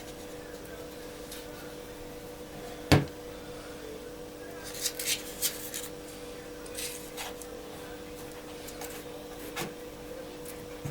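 Light handling noises while faux-brick pieces are glued onto a fireplace frame: one sharp knock, then a few short scrapes and a small tap, over a steady low hum.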